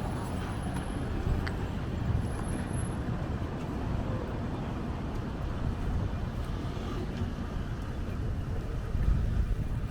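Wind buffeting the microphone in gusts, a low irregular rumble, over general city street noise, with a stronger gust about nine seconds in.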